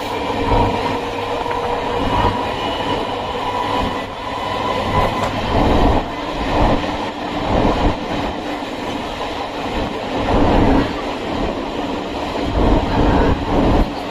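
Chennai MRTS suburban electric train running along the track, a loud, steady rail noise with wheel-and-track clatter and rumbling swells.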